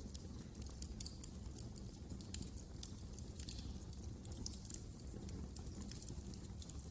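Wood fire crackling in a fireplace: frequent irregular small pops and snaps over a low steady rumble.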